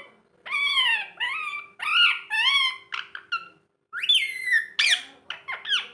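Rose-ringed (green ringneck) parakeet calling and chattering: about eight short, high-pitched squawks and talk-like phrases in quick succession, some sweeping sharply down in pitch.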